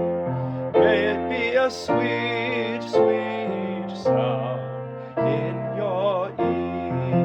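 Slow piano music: sustained chords struck about once a second, with a melody line above them that wavers in pitch.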